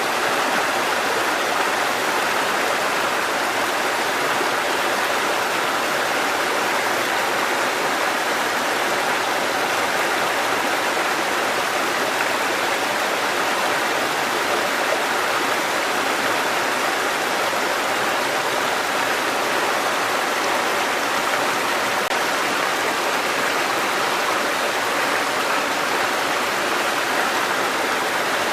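Mountain stream water cascading over rocks, a steady rushing splash.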